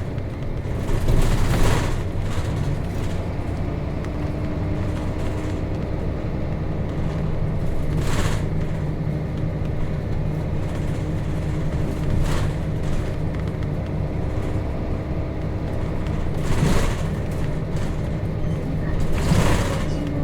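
Nissan Diesel KC-RM211GSN bus's FE6 inline-six diesel engine running steadily under way, heard from inside the bus. Several short bursts of noise rise above the drone and fade again.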